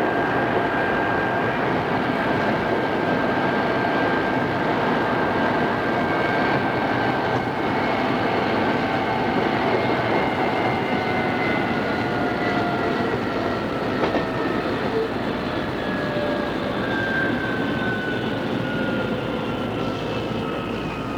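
Odakyu 2600-series electric train running with a steady rumble. Its motor and gear whine falls slowly in pitch throughout as the train loses speed.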